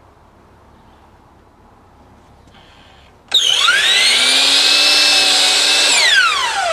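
Electric power tool motor switched on about three seconds in: it spins up with a quick rising whine, runs at a steady high pitch for a few seconds without cutting anything, then is released and winds down with a falling whine.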